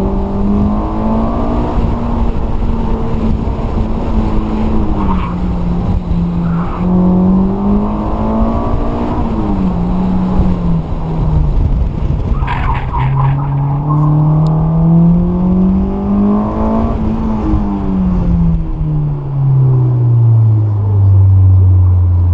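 Honda S2000's inline-four engine through a T1R exhaust, revving up and down repeatedly as the car is driven hard through an autocross course, with tires squealing in places. Over the last few seconds the engine note falls steadily as the car slows.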